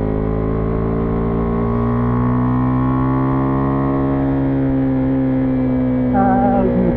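Single-cylinder engine of a Husqvarna Vitpilen 401 motorcycle running under way, its pitch climbing gently and then easing back.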